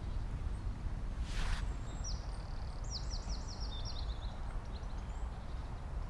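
A songbird sings a quick run of about eight high, sharp chirps lasting about two seconds, starting about two seconds in. Under it is a steady low rumble, and a brief hiss comes a little before the song.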